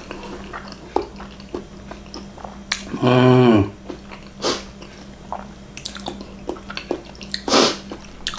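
Closed-mouth chewing of a takoyaki ball, with small wet mouth clicks and smacks. About three seconds in, a short hummed "mmm" slides down in pitch, and a breathy noise comes near the end.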